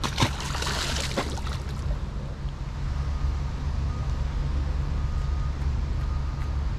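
Water splashing for about two seconds as a released largemouth bass is let go into the river, over a steady low rumble; from about three seconds in, a faint broken high tone repeats.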